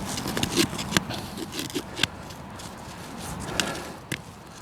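Digging in a field soil hole while recovering a detector target: the spade scrapes and crunches through the earth, with a few sharp knocks.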